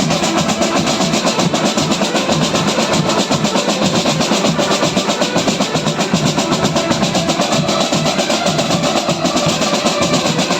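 A drum band playing, with rapid, steady drumming on snare and bass drums.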